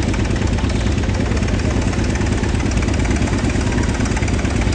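An old air compressor's engine running steadily, with a rapid, even beat and no change in pace.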